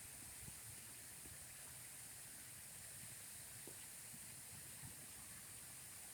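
Faint, steady rush of running water, with a high hiss.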